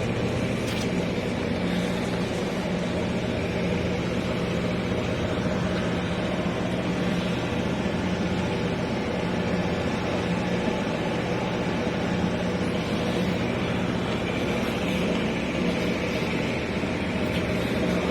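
Steady drone of a motor vehicle running at an even pace, a constant low hum over road noise.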